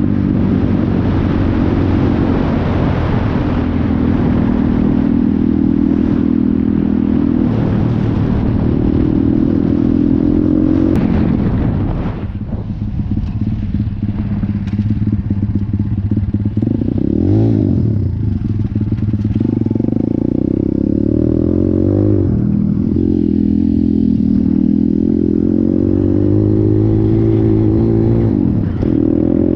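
Stomp Thumpstar Detroit 170 pit bike engine running under way, its pitch rising and falling as it is revved and the speed changes, with quick rev blips about two-thirds of the way in and near the end. Heavy wind noise rushes over the engine for the first dozen seconds.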